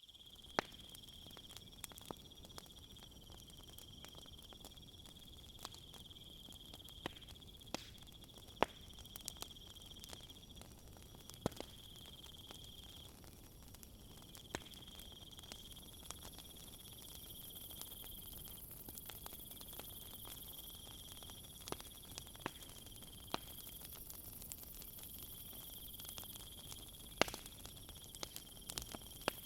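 Wood fire crackling, with scattered sharp pops, over a steady high chirring of night insects that breaks off and resumes every few seconds. A second, higher insect trill joins about halfway through.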